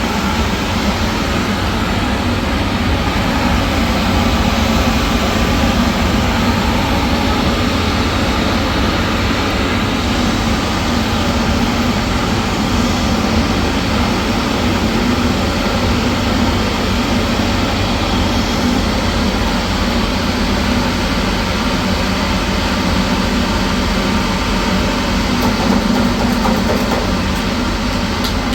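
Machinery running steadily at a loud level, with a constant low hum under an even rushing noise.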